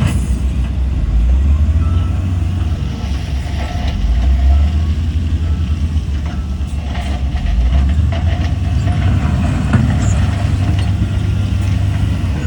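Heavy diesel engine of a Shantui bulldozer working, a deep steady rumble that swells and eases several times, with faint clinks and scrapes over it.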